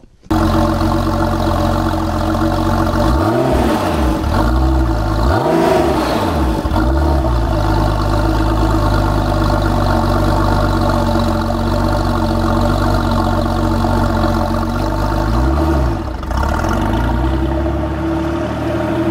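Car engine running steadily, with a quick run of about four revs rising and falling a few seconds in and one more rev later on.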